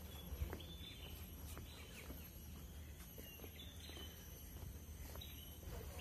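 Faint open-air ambience: a steady low rumble of wind with scattered short, high bird chirps.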